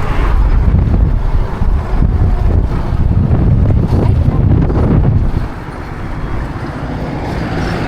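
Honda XRM motorcycle on the move: engine and road noise under heavy wind buffeting on the microphone, dropping in level about five seconds in.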